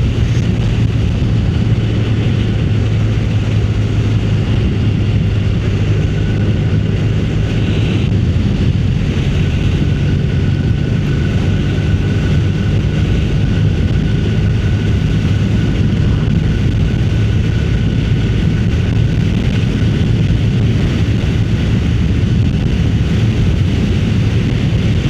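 Motorcycle engine running steadily at a constant pace while riding, with wind rushing over the microphone.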